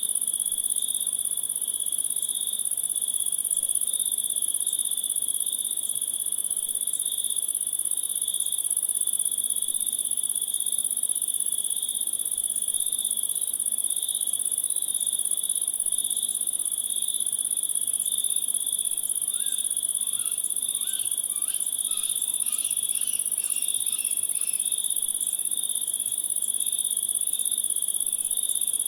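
A steady chorus of crickets trilling continuously in two high-pitched layers. About two-thirds of the way through, a brief run of short, quick chirps sounds over it.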